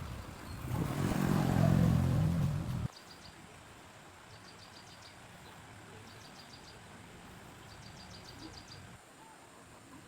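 A low rumbling noise that cuts off suddenly about three seconds in, followed by faint rapid high chirps coming in four short trills.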